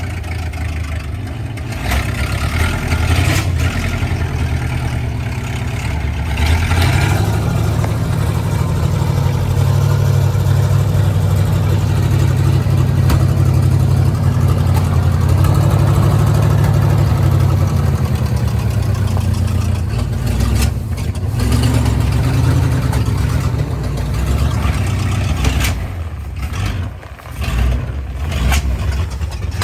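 A truck engine running, building up about seven seconds in and holding steady, then easing off, with the sound turning uneven and dropping out briefly near the end.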